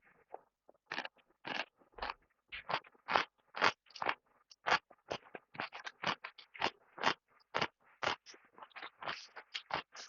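Close-up chewing: a steady run of short, crisp mouth sounds, about two or three a second.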